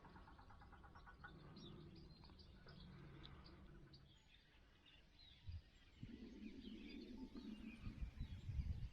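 Near silence with faint bird chirps, and a low rumble from about six seconds in.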